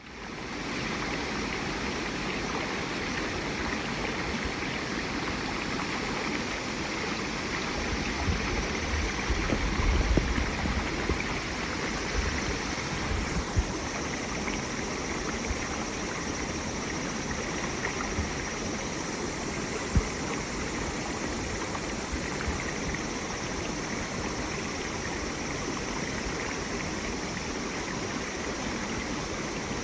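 Running water, a steady stream sound, with some low thumps about ten seconds in and a short sharp knock about twenty seconds in.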